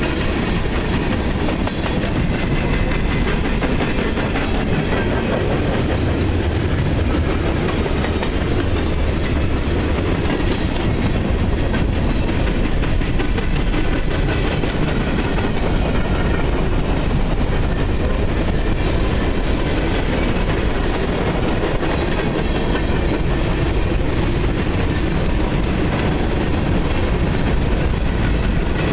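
Freight cars (tank cars, covered hoppers and boxcars) rolling past close by: a steady rumble of steel wheels on the rails with continuous clicking and clatter.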